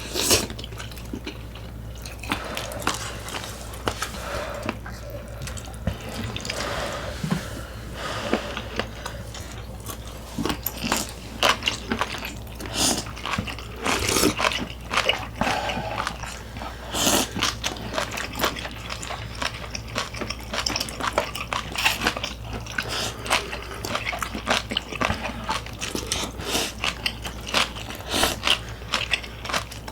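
Close-up eating sounds: chewing and wet mouth smacks, with many small clicks and crunches, over a steady low hum.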